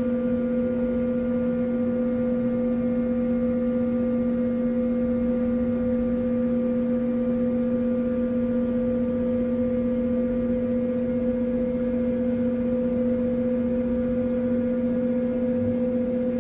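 Steady electrical hum, one unchanging low drone with a fainter buzzy overtone.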